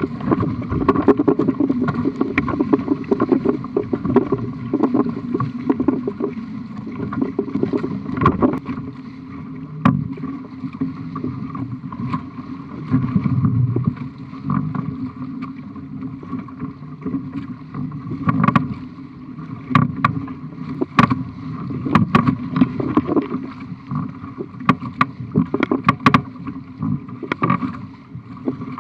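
Sailing dinghy under way: water rushing and slapping against the hull, with frequent sharp knocks from waves hitting the boat and wind buffeting the microphone.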